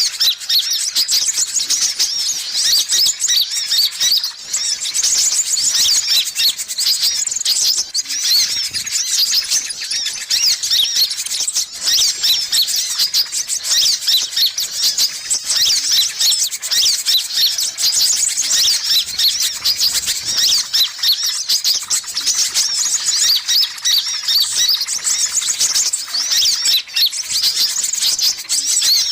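Sunbirds (kolibri ninja and brown-throated 'kolibri kelapa' type) calling as a lure track: a dense, unbroken stream of fast, high, squeaky chattering and twittering notes, many overlapping.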